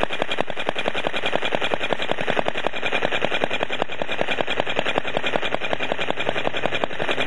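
Small four-stroke model petrol engine with spark ignition, running at a steady speed: a rapid, even string of sharp exhaust pops.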